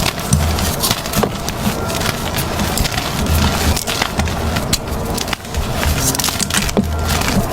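Blocks of gym chalk being crushed and crumbled by hand: a dense, irregular run of dry crunches and crackles.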